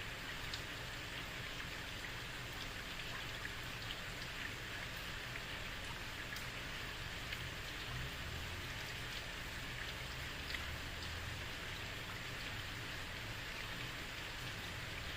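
Heavy rain falling steadily on a street: a constant hiss with many small drop ticks scattered through it.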